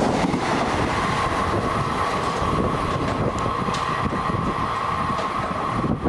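A passenger train running past on the rails: a steady rumble of coaches and wheels, with a steady high whine that comes in about half a second in as the rear of the train runs away down the track.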